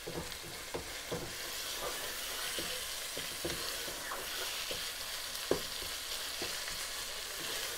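Minced mutton sizzling steadily in oil in a nonstick pot while a wooden spatula stirs and scrapes it, with irregular soft knocks of the spatula against the pan and one louder knock about five and a half seconds in. The raw mince is being browned (bhuna) so it loses its rawness.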